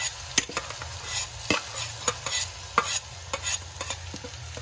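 Ground green chilli and garlic sizzling in hot oil with cumin seeds in a kadhai, being stirred. Sharp, irregular crackles and pops run through the sizzle: the tempering (phodni) frying.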